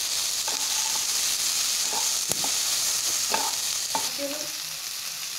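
Onions and capsicum sizzling in hot oil in a metal kadai while a wooden spatula stirs them, with several short scrapes and knocks of the spatula against the pan.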